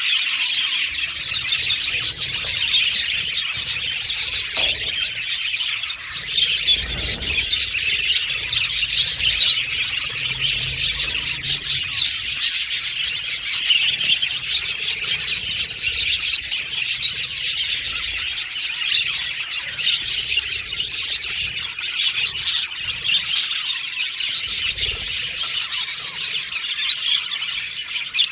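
Budgerigars chirping, warbling and chattering without a break, a dense mix of high chirps and whistles.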